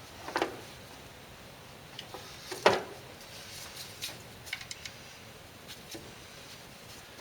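Scattered light metallic clicks and clinks of a small wrench working the nut on the back of a car alternator, the loudest about two and a half seconds in.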